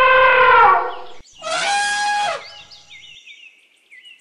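Elephant trumpeting: a long, loud horn-like call that breaks off about a second in, then a shorter, harsher trumpet blast whose pitch drops at the end. Faint high chirps follow.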